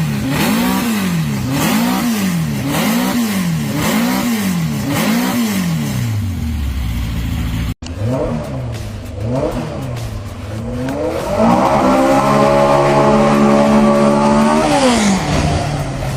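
Stroker Volkswagen engine being revved: quick repeated blips of the throttle, the pitch rising and falling a little faster than once a second. After a brief break, a few more blips lead into about three seconds held at high revs before it drops back.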